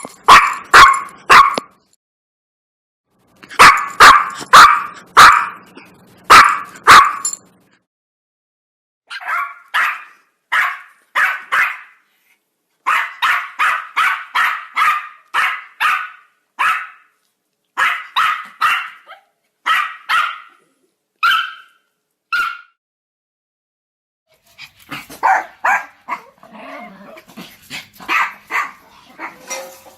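Dogs barking in series of short sharp barks, loud at first, then a quicker and quieter run with pauses between the series. Near the end the barking gives way to a denser, more wavering stretch of calls that slide in pitch.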